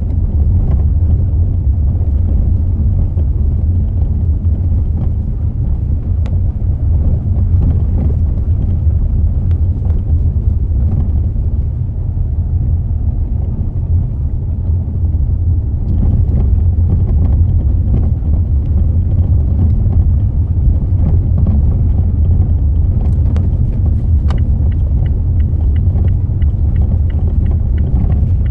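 Mazda 6 with a steady low rumble and scattered sharp knocks from a faulty front strut bearing. Near the end a rapid run of light, even ticks joins in.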